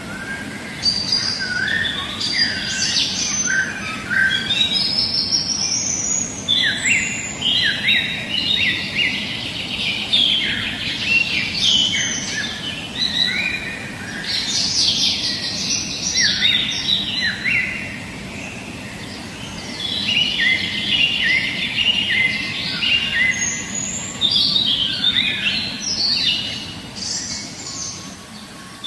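Many songbirds chirping and trilling together, a dense overlapping chorus of short high calls over a steady low background rush. The chorus thins and fades out over the last few seconds.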